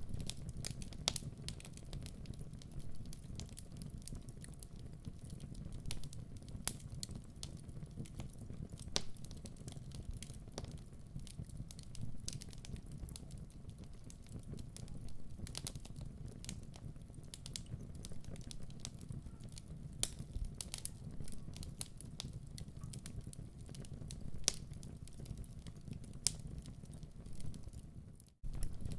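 Wood fire crackling in a fireplace: irregular sharp pops and snaps over a steady low rumble of the burning logs, cutting out for a split second near the end.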